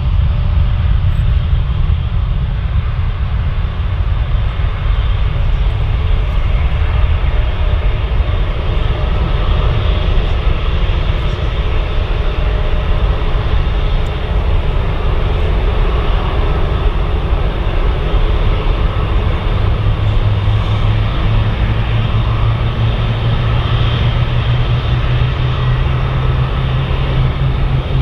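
Airbus A320 airliner's jet engines running, a loud, steady noise heavy in low rumble. A low, steady drone comes in about twenty seconds in.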